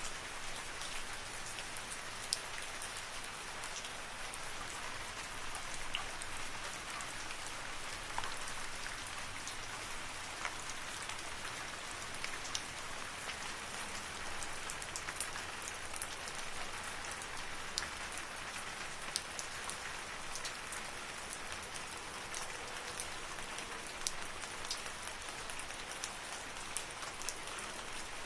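Steady rain falling in a forest: an even hiss of rainfall with many separate drops ticking sharply against leaves and surfaces.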